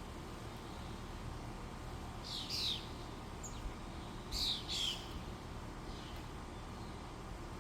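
A bird calling twice, about two seconds apart, each call a pair of quick high notes falling in pitch, over a steady low background rumble.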